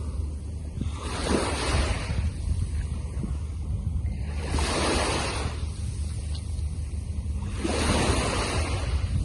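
Sea waves breaking on a beach, three surges of surf about three seconds apart, over a steady low rumble of wind on the microphone.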